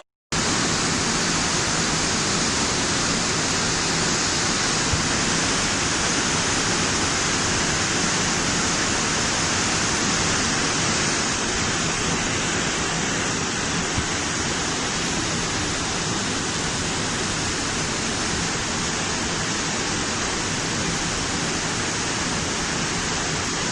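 Floodwater rushing in a torrent where a road has been washed out: a steady, unbroken roar of water.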